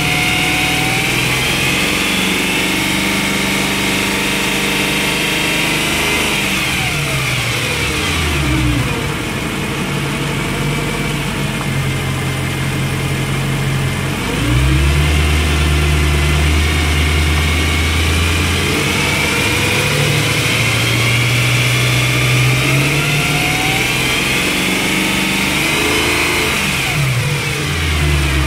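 BMW E90 M3's 4.0-litre V8 being revved: it climbs slowly for about six seconds and falls back. It runs low for several seconds, then climbs again in a long rise and drops near the end. The owner is checking the sound for signs of rod-bearing wear.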